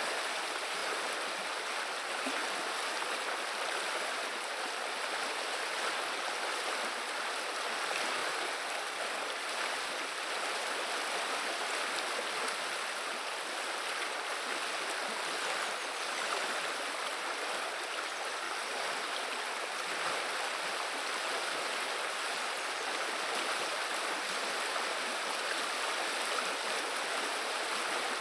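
The Viliya river running: a steady murmur of flowing water with no breaks.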